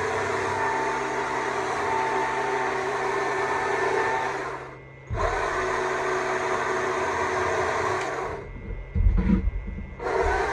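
Stihl MSA 200 C battery chainsaw running at speed while carving wood, with a steady motor whine. It stops briefly about halfway, then again near the end, where there are a few low bumps.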